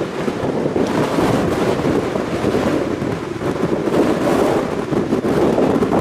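Storm-force wind blowing hard over the microphone: a loud, continuous, rumbling rush that swells and dips without a break.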